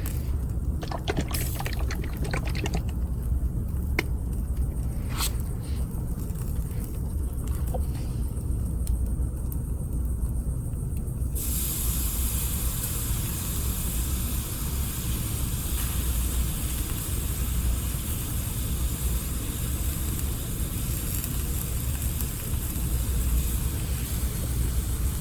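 Yakiniku-sauce-seasoned chicken cooking over a campfire. A few sharp clicks come in the first half, then a steady sizzle starts about halfway through and carries on, over a constant low rumble.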